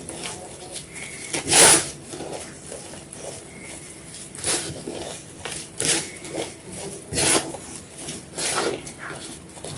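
White gym chalk being crunched and crumbled, a string of irregular gritty crunches about once a second, the loudest about one and a half seconds in.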